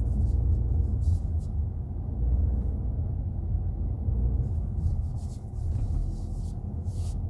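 Steady low rumble of engine and road noise inside the cabin of a Kia Seltos on the move.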